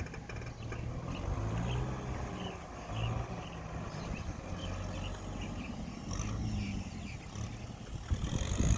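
Kubota tractor's diesel engine running under load while ploughing a wet rice field, its low drone wavering in pitch.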